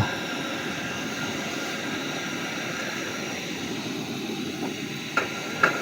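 Portable gas stove burner running with a steady, even roar, with no change in level.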